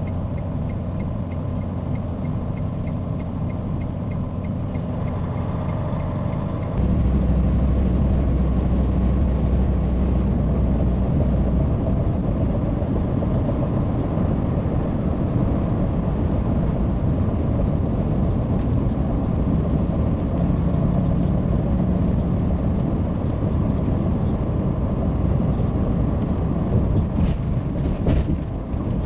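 Truck engine and road noise: a steady low rumble that steps up louder about seven seconds in.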